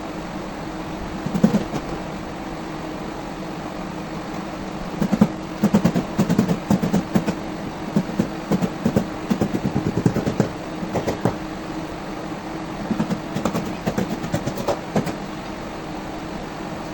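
A steady machine hum with clusters of rapid knocking: a short burst about a second in, a long run in the middle, and another burst near the end.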